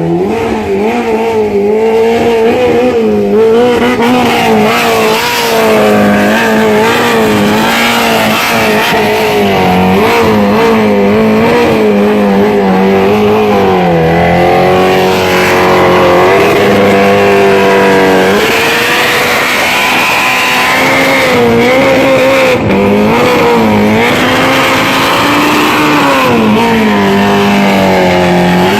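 Kawasaki Ninja H2R's supercharged inline-four engine running hard at high revs, loud and sustained, its pitch wavering up and down with a couple of brief dips about halfway through.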